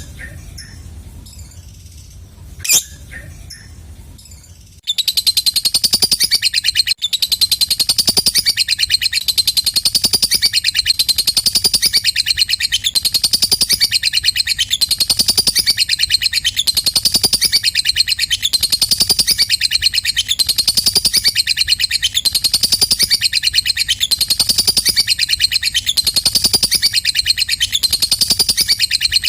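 Lovebird ngekek: a long, rapid, high-pitched chattering trill that pulses about once a second and keeps going without a break. It starts abruptly about five seconds in; before that there are only a few single sharp chirps.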